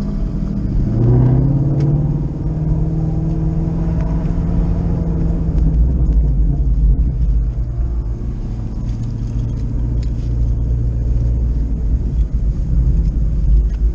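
A car's engine heard from inside the cabin while driving at low speed, with a heavy low rumble. The revs rise about a second in, hold, then settle lower around the middle as the car rolls on.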